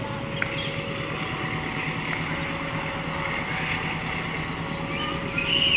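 Train locomotive engine running with a steady low drone.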